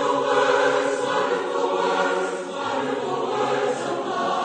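A choir singing, many voices blended together into one dense sound.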